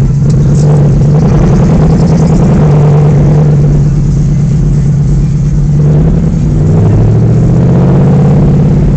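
Audi R8 engine pulling hard under load, heard from inside the cabin; the note holds steady, drops about six seconds in, then climbs again.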